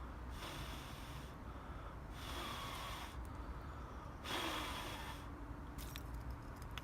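A person blowing onto a smouldering dry-grass tinder bundle to feed air to the embers: three long breaths, each about a second, with short pauses between.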